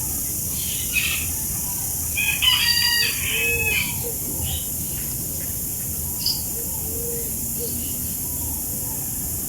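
A rooster crows once, starting about two seconds in and lasting about a second and a half, over steady background noise, with a few short bird chirps later on.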